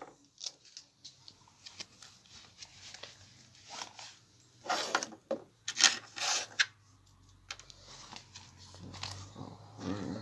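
Rustling and rubbing of belongings being handled, with a run of short, irregular scrapes and rustles, the busiest stretch about halfway through.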